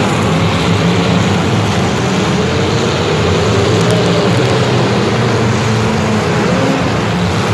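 An engine running steadily and loudly, its pitch wavering slightly up and down.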